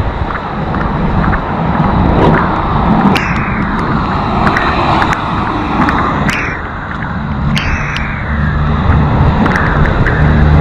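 Road traffic on a wet, slushy street: several vehicles pass one after another, each a sharp swish of tyres on the wet road that falls away, over a steady rush of noise, with a vehicle's engine hum growing near the end.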